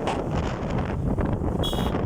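Wind buffeting the microphone of a moving motorcycle over a steady low rumble of engine and road. A short high beep sounds near the end.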